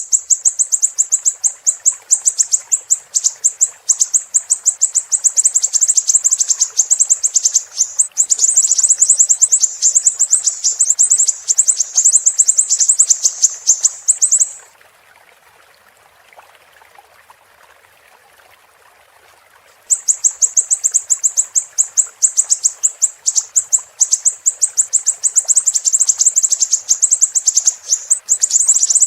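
Siri-siri bird singing a loud, very high-pitched, rapid chattering trill of sharp chirps. The trill breaks off for about five seconds midway, leaving only a faint hiss, then starts again.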